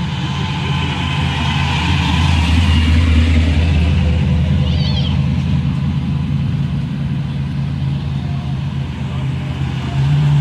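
Car engine running steadily, its sound swelling about a second in and again near the end, with a brief high chirp about five seconds in.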